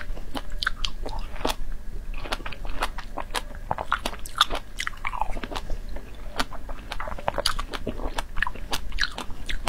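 Close-miked chewing and biting of fresh strawberries: a quick, irregular run of small mouth clicks and squelches.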